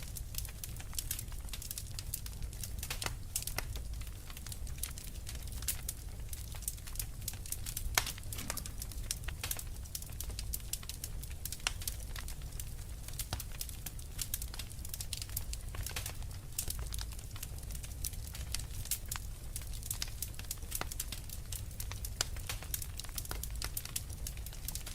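Wood fire crackling: a dense, irregular stream of sharp pops and ticks, one louder pop about eight seconds in, over a steady low rumble.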